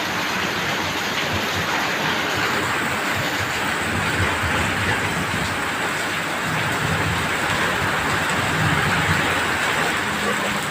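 Steady heavy rain with wind, an even rushing noise with a low rumble underneath.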